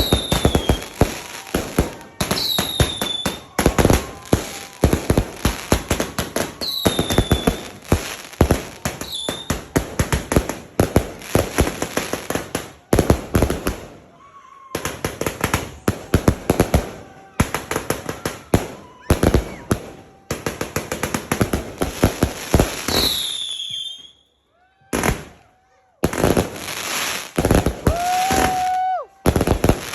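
A 150-shot Fantasia fireworks cake firing in rapid volleys, several shots a second, with now and then a high whistle falling in pitch. The firing drops out briefly twice, about six seconds before the end.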